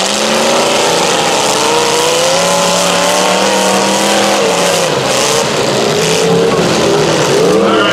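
Demolition derby car engines running on the track, holding a steady pitch at first and then revving up and down from about five seconds in, over a constant wash of engine and track noise.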